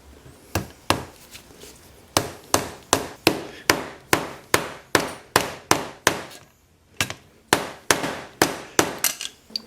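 A hammer driving a part into a wooden block of a homemade lathe. A couple of blows come first, then a steady run of strikes about three a second, a brief pause, and a second run of strikes.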